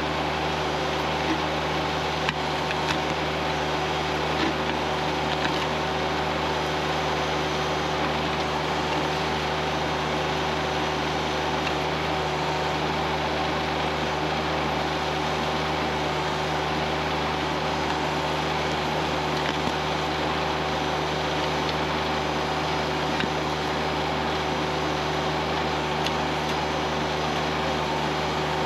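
Kioti CS2520S subcompact tractor's three-cylinder diesel engine running steadily at a constant speed, with a continuous hum, while working the backhoe.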